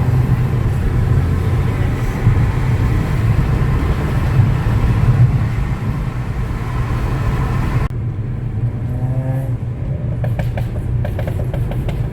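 Car engine drone and road noise inside a moving car's cabin. About eight seconds in the sound abruptly turns duller, and a run of short clicks follows near the end.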